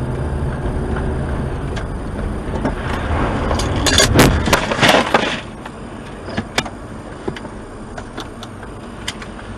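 Road and engine noise from a moving car, then a collision about four seconds in: a cluster of loud crunching, breaking impacts lasting about a second and a half, followed by quieter noise with a few scattered clicks.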